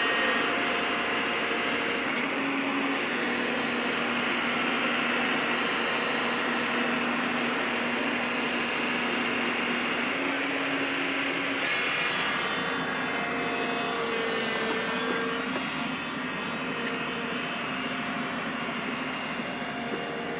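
Truck engine running steadily, with a high thin whine above it; it eases slightly in level about halfway through.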